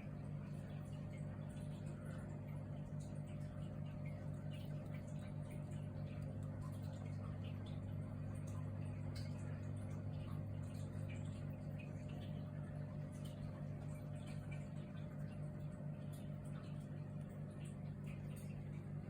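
Steady low hum of an aquarium pump, with faint scattered clicks above it.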